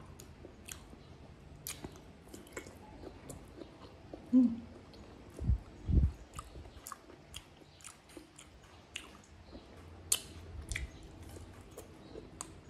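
Close-up eating sounds: chewing vegetables dipped in buro (fermented rice), with many quick wet mouth clicks and smacks. A few loud dull thumps come about four to six seconds in.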